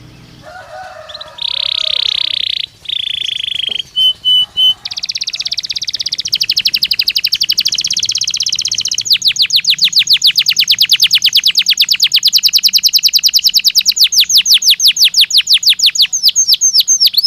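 Belgian canary singing: a few long, loud high whistled notes open the phrase, then it breaks into a long fast trill of rapidly repeated downward-sweeping notes that grows louder and quicker about halfway through.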